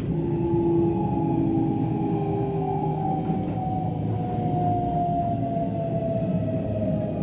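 Keihan electric train's traction motors whining, with tones that slowly fall in pitch as the train slows to stop at a station, over the steady rumble of the wheels on the rails.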